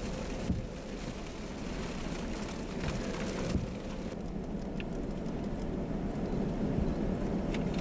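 Steady road and engine noise of a car driving, heard from inside the cabin, with a few light knocks.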